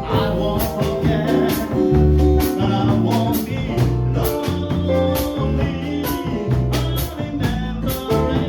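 Small jazz group playing a standard: a bass line walking note by note about twice a second under melodic notes, with regular cymbal strokes keeping time.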